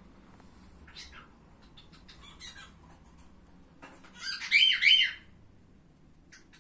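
A bird gives a short, loud, wavering squawk about four seconds in, with faint scattered clicks before and after.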